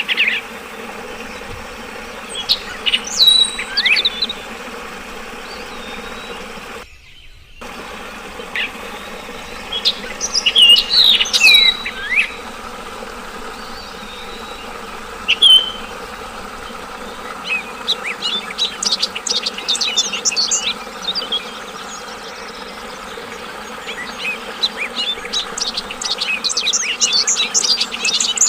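Yellow-vented bulbul (trucukan) singing in short phrases of sliding whistled notes, then bursts of fast chattering notes in the second half, over a steady rush of flowing water. The sound drops out briefly about seven seconds in.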